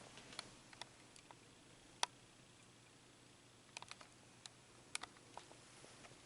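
Near silence: a faint low hum with scattered, irregular soft clicks and ticks.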